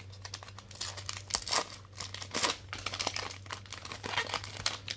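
Plastic foil wrappers of Donruss football trading-card packs crinkling and tearing as they are handled, in a quick run of irregular rustles.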